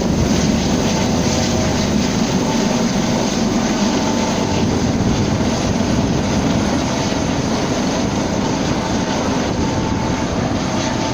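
Helicopter running steadily with a continuous rotor and engine noise.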